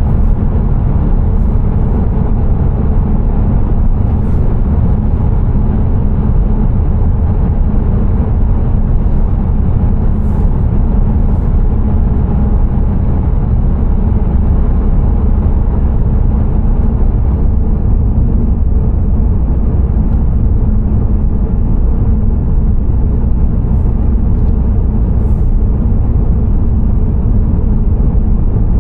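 Car driving on the road: a steady, loud, low rumble of tyres and engine that holds even throughout.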